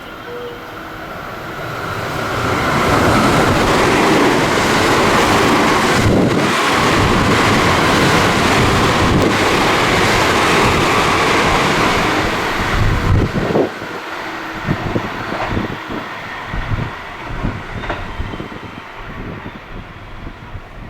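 A train passing through the station at speed without stopping: its rushing noise swells over about two seconds and stays loud for about ten, then gives way to the fading clatter of wheels over the rail joints.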